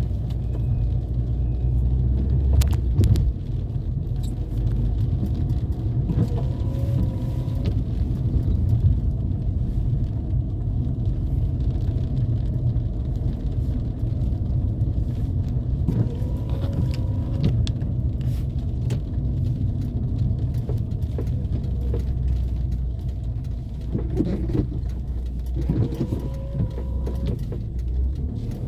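Car driving through town streets: a steady low engine and road rumble, with occasional short clicks and rattles.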